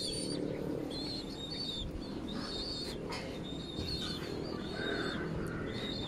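Small birds chirping, with short high chirps repeated every second or so over faint low background noise.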